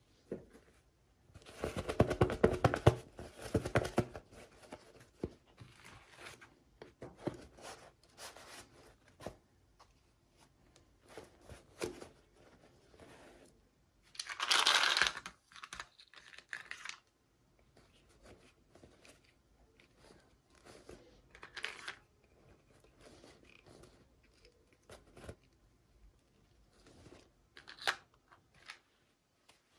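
Toy packaging being torn open and crinkled by hand. A long, rough tearing runs from about 1.5 to 4 seconds in, with a shorter rip just past the middle and scattered small rustles and clicks in between.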